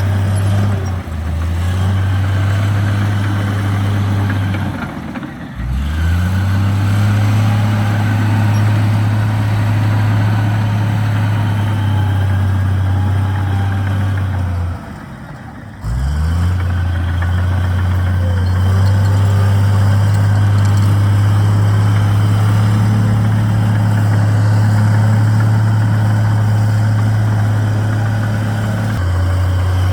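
Heavy-equipment diesel engine running steadily at high throttle. Twice, about five seconds in and again at fifteen seconds, the engine note drops briefly and then rises quickly back up, as the throttle is eased off and opened again.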